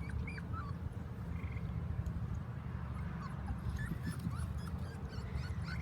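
Standard Schnauzer puppy whimpering faintly: a few short, high, rising squeaks over a steady low rumble.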